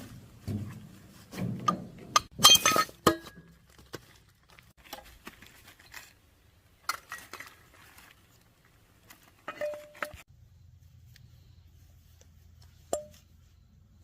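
Metal parts and tools clinking and knocking as they are handled. A loud clatter with ringing comes about two to three seconds in, then sparser clicks and a few single ringing clinks later.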